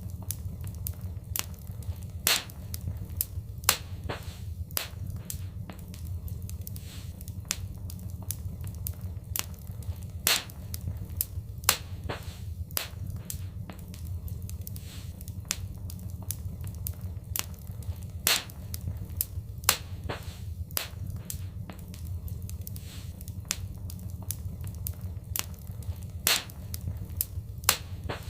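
Wood fire in a fireplace crackling: a steady low rumble of flames with frequent sharp crackles and louder pops every few seconds.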